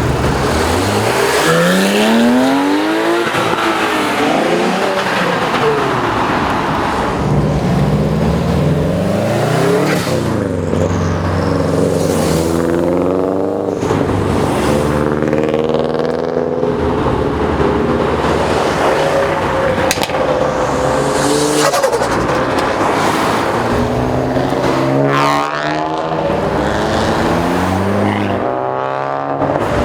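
Several car engines revving hard and accelerating, their engine notes climbing and dropping again and again, with cars passing by.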